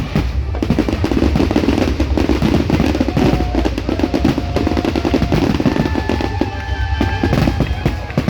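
A fireworks display going off in a dense, rapid stream of bangs and crackles over a deep rumble, with music playing along.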